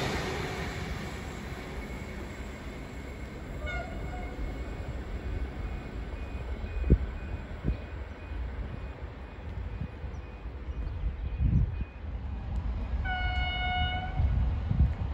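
V/Line VLocity diesel multiple unit pulling away and fading into the distance, its low rumble slowly dying down. Near the end there is a steady pitched tone about a second long.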